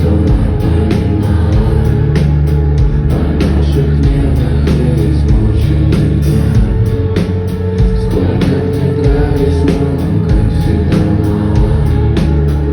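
Live rock band playing loud through a venue's sound system, with heavy bass, electric guitar and a steady drum beat, and a vocal line over the top, recorded close-up on a phone in the crowd.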